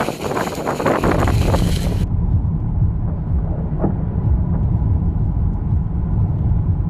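Wind buffeting the microphone, a heavy low rumble. About two seconds in, a higher hissing rush cuts off abruptly, leaving only the low rumble.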